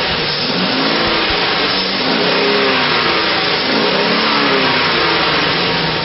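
2005 GMC Savana's 6.0-litre V8 engine running and being revved, its pitch rising and falling about three times.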